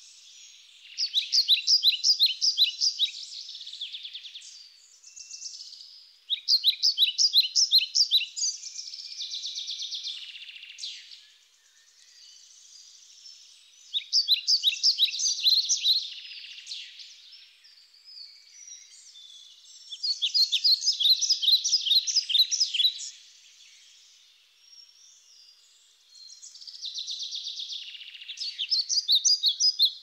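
A songbird singing a high, fast trilled song of rapid repeated notes, five times with pauses of a few seconds between.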